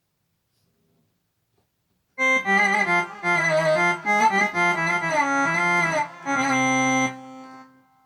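Korg Pa600 arranger keyboard playing a sampled melodic lead voice from a Kronos sound set: after a couple of seconds of silence, a short phrase with wavering, bending pitch, ending on a held note that fades out near the end.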